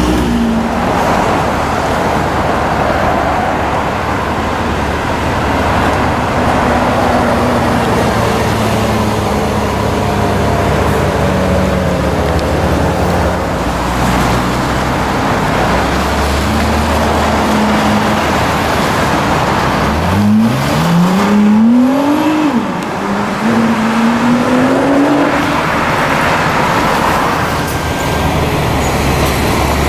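Street traffic noise, with a sports car accelerating hard about twenty seconds in: its engine note climbs steeply, drops at a gear change, then climbs again.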